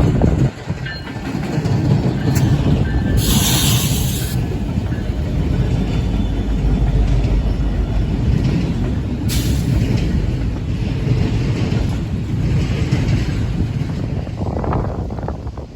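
Passing train: a steady, loud rumble of wheels on rail, with two brief bursts of hiss, one about three seconds in and one about nine seconds in.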